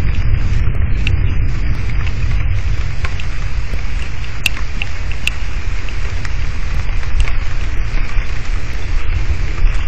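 Heavy rain in a thunderstorm, an even hiss with a steady low rumble underneath and scattered sharp ticks of drops striking close to the microphone.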